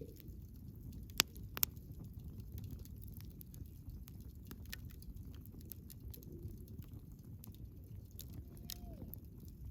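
Wood bonfire burning with a low steady rumble and frequent irregular crackles, with two sharp louder pops a little over a second in. A faint brief whistle sounds near the end.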